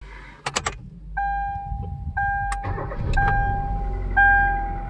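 Hyundai Accent being started: a few sharp clicks, then a dashboard warning chime dinging about once a second while the engine cranks and catches around the middle and settles into a low idle.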